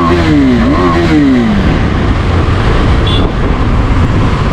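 KTM 390 Adventure's single-cylinder engine accelerating hard: its pitch climbs, dips at a gear change and climbs again, then falls away about a second and a half in as the throttle closes. After that, a steady rush of wind and road noise.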